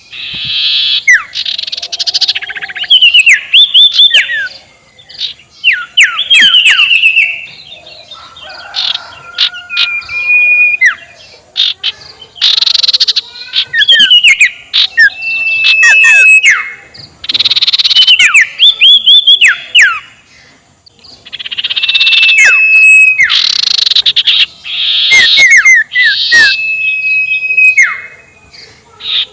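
Barn owl (sirtu) calling: harsh, hissing screeches of about a second each, repeating every few seconds, mixed with quick runs of high, falling chirp notes and a few short level whistles.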